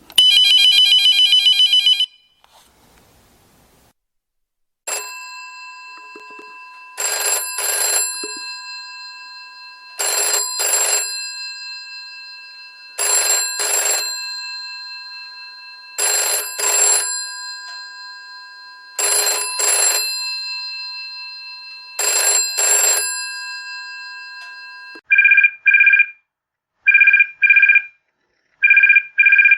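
A sequence of telephone rings. First comes a brief buzzing ring of about two seconds. After a short pause, a bell telephone rings in double rings about every three seconds, its tones lingering between rings. Near the end it gives way to short electronic double-beep rings.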